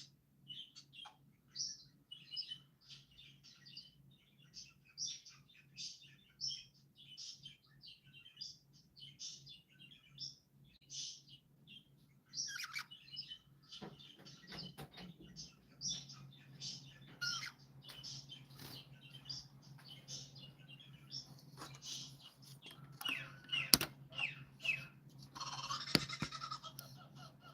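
Small birds chirping in quick, repeated high calls, with a faint low hum coming in about halfway and a couple of sharp clicks near the end.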